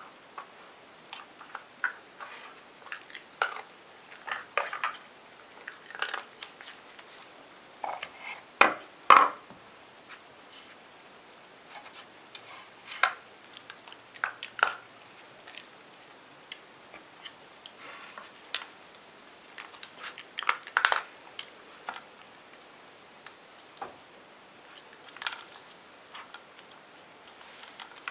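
Dog working a puzzle toy: irregular clatter and knocks as the toy's pieces are pushed and moved, with louder clusters about nine seconds in and again about twenty-one seconds in.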